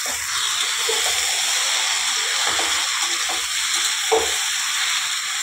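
Chopped ridge gourd frying in oil in a kadhai over a high flame: a steady sizzle, with a few light knocks of the spatula stirring, the clearest about four seconds in.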